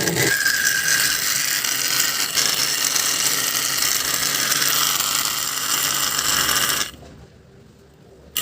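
Small air-cooler water pump motor running loudly and steadily, switched off about seven seconds in and started again right at the end.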